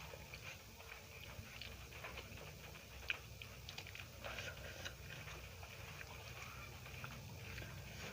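Faint close-up chewing and mouth sounds of a person eating, with scattered small clicks and one sharper click about three seconds in, over a low steady hum.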